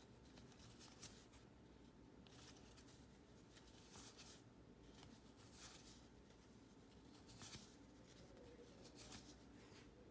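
Faint sliding and brushing of cardboard baseball cards being flipped over one at a time, a soft stroke about every second and a half.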